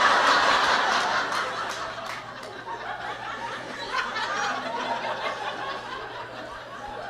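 Audience laughing, loudest at the start and dying down gradually.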